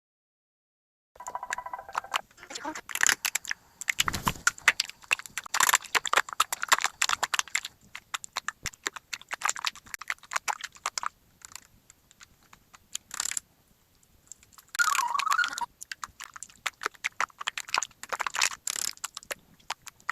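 Slime being squished and pressed, making rapid crackling, popping clicks in bursts with short pauses. A brief wavering squeak sounds near the middle.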